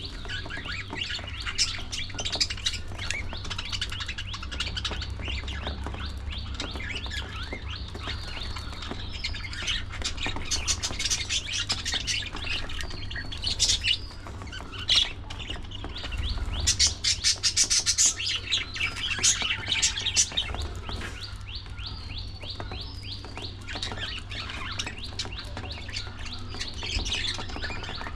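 A flock of budgerigars chattering: many birds chirping and warbling over one another without pause, with louder, busier stretches in the middle.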